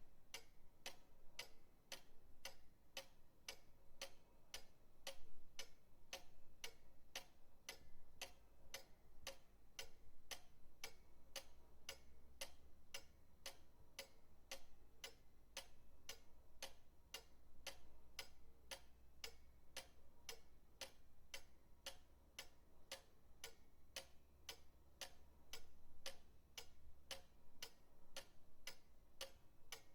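Pendulum clock ticking steadily and faintly, about two ticks a second.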